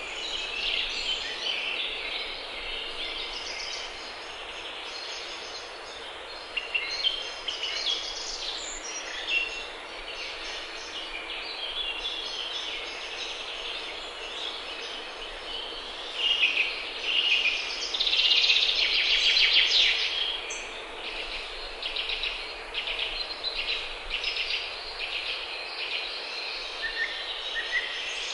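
Several songbirds singing and chirping at once, a busy run of short high-pitched calls that grows loudest about two-thirds of the way through.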